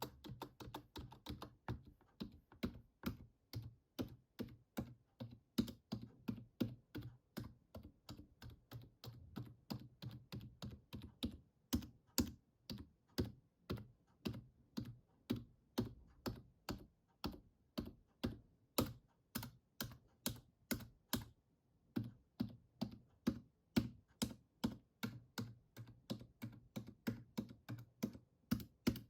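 Computer keyboard keys clicking in a steady run, about three presses a second, with a short pause about three-quarters of the way through.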